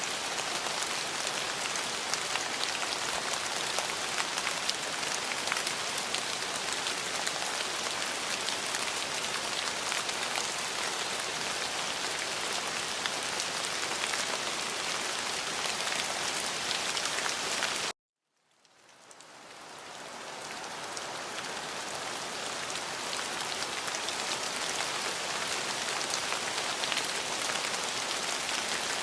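Steady rain falling on a surface, with many small drop impacts. About two-thirds of the way in it cuts out suddenly, then fades back in over a couple of seconds.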